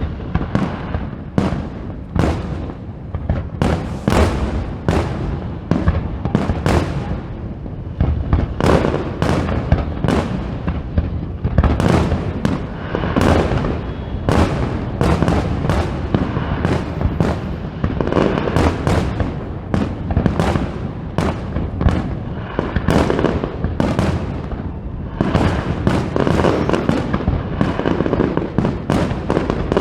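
Fireworks display going off without pause: a rapid, overlapping run of bangs and booms over a continuous rumble, with the bursts coming thickest about halfway through and again near the end.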